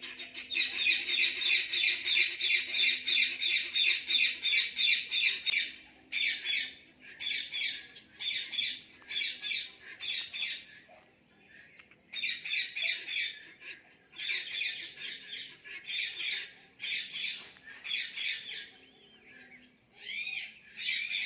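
Indian ringneck parrot calling: a rapid run of harsh squawks, about four a second, for the first six seconds, then short bursts of squawks separated by brief pauses.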